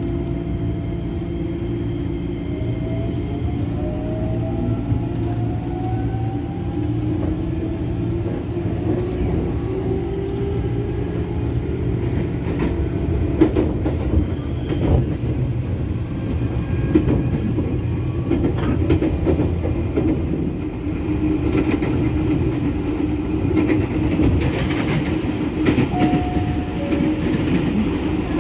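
KRL commuter electric train running along the line: a steady rumble of wheels on track with the whine of the electric motors, which rises in pitch in the first few seconds. A few sharp clacks sound around the middle.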